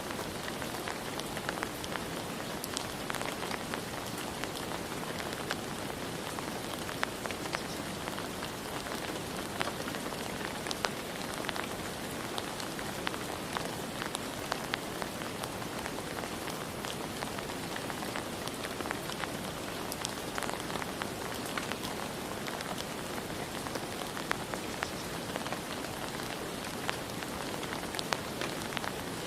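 Steady rain falling on a surface, an even hiss with many individual drops ticking sharply through it.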